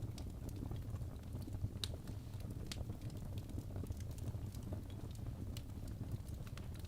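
Log fire burning in a fireplace: a steady low rumble of flames with scattered sharp crackles and pops, a few a second.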